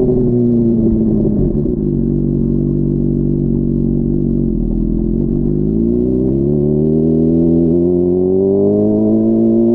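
Honda CBR600RR's inline-four engine on the road: the engine note falls as the bike slows over the first couple of seconds, holds low for a few seconds, then rises steadily as the throttle is opened and the bike accelerates.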